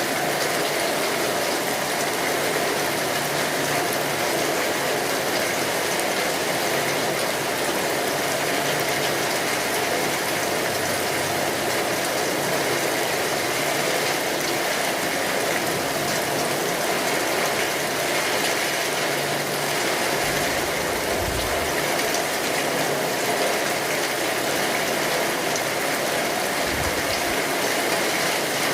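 Steady heavy rain drumming on a tin roof, with the small pops and crackles of a wood fire. Two brief low rumbles come about two-thirds through and near the end.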